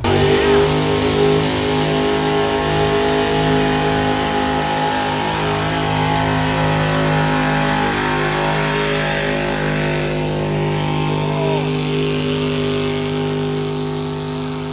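Engine of a truck or tractor on the pulling track, held at full throttle and running loud at a high, nearly steady pitch.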